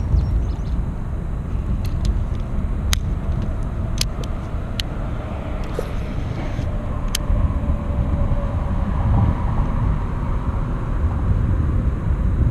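Wind rumbling on the microphone, with several sharp clicks about two, three, four, five and seven seconds in.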